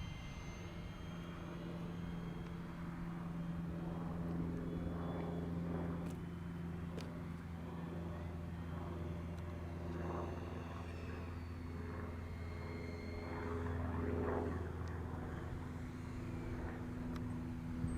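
A steady, low engine hum. Some high whining tones fade out in the first second.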